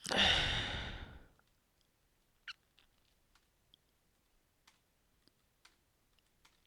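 A person's long sigh, a heavy breath out that fades over about a second, followed by faint scattered clicks.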